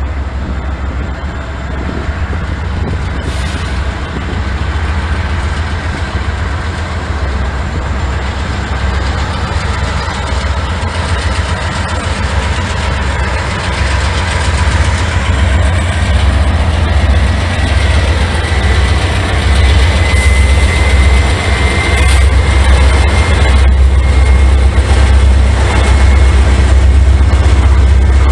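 Diesel freight train locomotive drawing closer, its deep engine sound growing steadily louder. A thin high-pitched squeal joins in past the middle and fades near the end.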